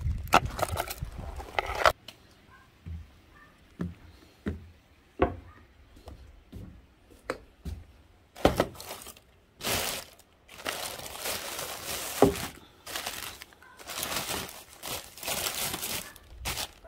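Small pieces of wood knocking lightly now and then, followed by several seconds of crumpling and rustling, as kindling and paper are handled to lay a wood-stove fire.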